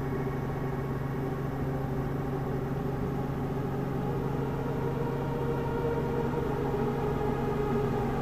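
Helicopter in cruising flight, heard from inside the cabin: a steady drone of engine and rotor with a constant low hum.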